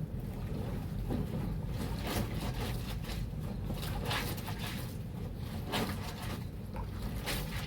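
Water and wet bedsheets sloshing and splashing in a basin as laundry is washed by hand, in irregular strokes over a steady low rumble.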